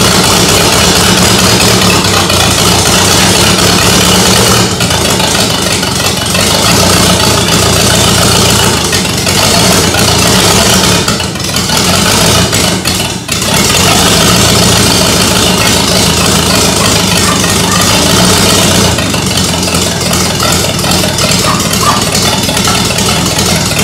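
Freshly rebuilt 1937 Ford V8-60 flathead V8 running on an engine stand at its first start, with its carburetor being worked by hand, a carburetor the owner says is not yet dialed in. The sound drops briefly twice just past the middle, then runs steadily again.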